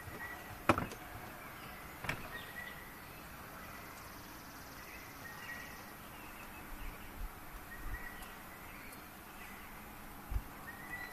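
Faint outdoor ambience with birds chirping now and then in short, high calls, and two sharp clicks within the first couple of seconds.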